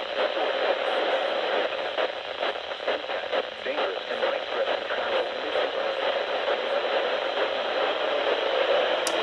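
A radio broadcast received through heavy static and hiss, with a voice mostly buried under the noise. A sharp click comes near the end.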